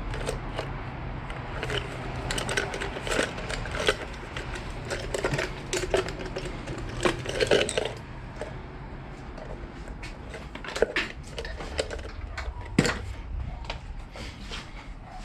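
Irregular clicks, taps and plastic rattles from hand tools working the plastic fairing panels loose on a 2013 Yamaha R1, with a few sharper knocks, over a steady low hum.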